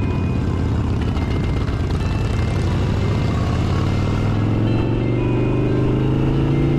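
Motorcycle engine running under way with heavy road and wind noise. It accelerates over the last few seconds, its pitch rising steadily.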